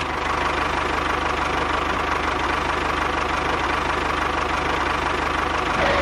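A small engine running steadily at an even speed with a fast, regular pulsing.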